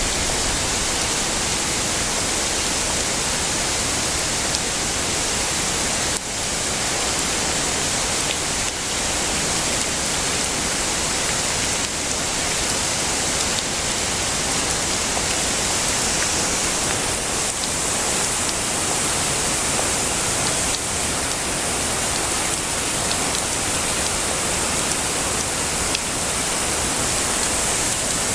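Heavy rain falling steadily, an even, dense hiss with no thunder.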